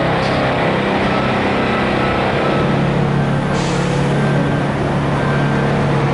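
Heavy vehicle engine running steadily, its note dropping slightly partway through, with a short hiss about three and a half seconds in.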